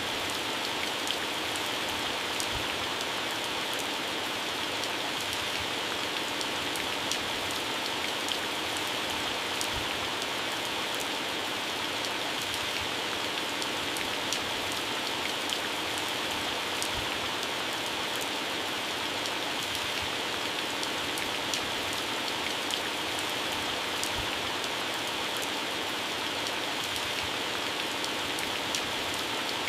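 Heavy rain falling steadily on garden plants, leaves and grass, a constant hiss with many sharp individual drop patters on the leaves.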